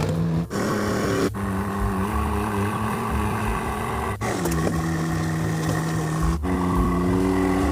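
Steady drone of a running engine, its pitch jumping to a new steady note at several abrupt cuts.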